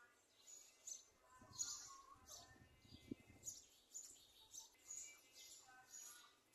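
Faint bird calls: short chirps repeating again and again, with a few lower pitched notes among them.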